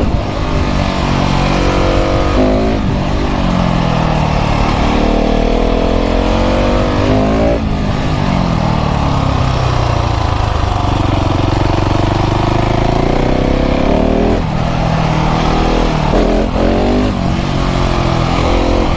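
KTM 690 SMC R's single-cylinder LC4 engine through a full LeoVince exhaust, revving up through the gears with a change every few seconds. Then it rolls off and winds down in pitch on the overrun before picking up again, with a couple of quick changes near the end.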